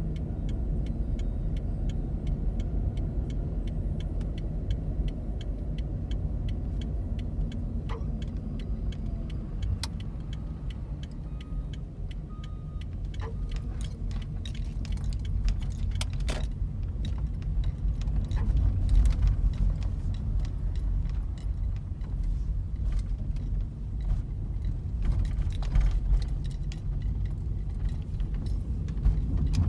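2004 Toyota Prius cabin noise while driving: a steady low road rumble with light jangling and clicking throughout. Partway through, a brief faint squeal sounds as the brake pedal is pressed, the brake noise the owner is trying to trace.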